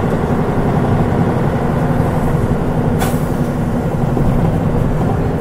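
Mitsubishi Fuso Aerostar KL-MP37JK city bus heard from inside, its 6M70 turbocharged six-cylinder diesel running at a steady pitch. A brief hiss of air comes about three seconds in.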